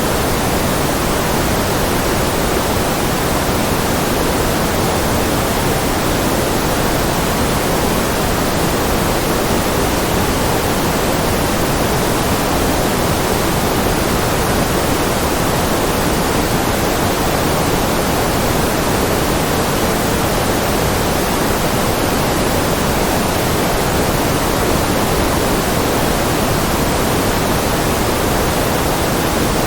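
Steady, unchanging electronically generated noise, a constant hiss with more weight in the lower and middle range than in the treble, like pink noise, played as background for concentration.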